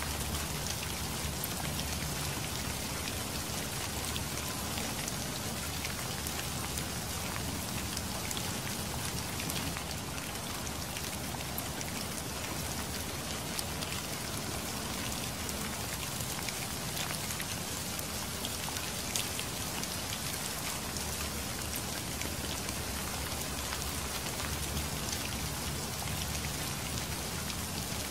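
Steady rain falling, with scattered sharper hits of single drops close by.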